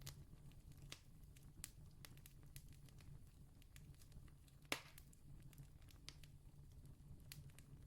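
Faint wood campfire crackling: sparse small pops and snaps, with one louder pop a little under five seconds in, over a steady low rumble.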